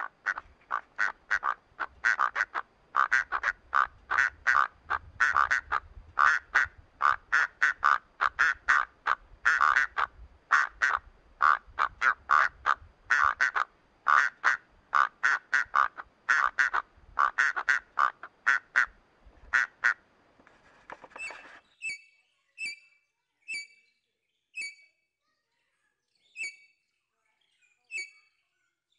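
Bird calls: a rapid run of short calls, about three a second, for some twenty seconds. Then, from about three quarters of the way in, sparser, sharper and higher chirps come about one a second.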